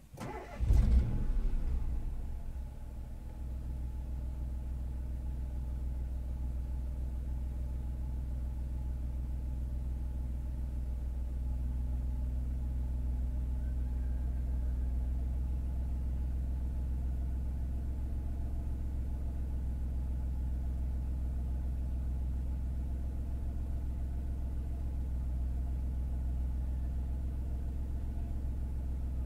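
Renault Clio 4's engine starting about a second in, then idling steadily, heard from inside the cabin.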